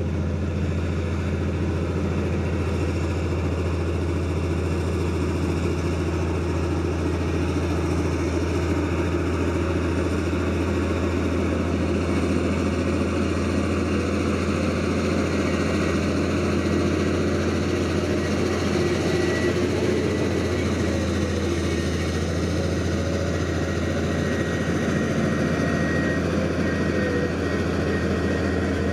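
Heavy diesel engine of earthmoving machinery running steadily with a deep constant hum, with a faint thin high whine joining about two-thirds of the way through.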